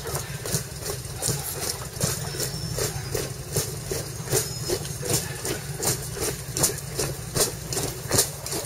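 A motorcycle engine idling steadily, with the regular tread of marching boots on tarmac over it, about two steps a second.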